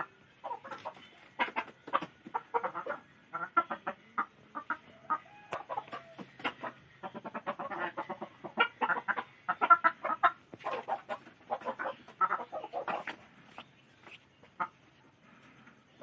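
Chickens clucking: many short, repeated clucks from several hens, busiest in the middle and thinning out near the end.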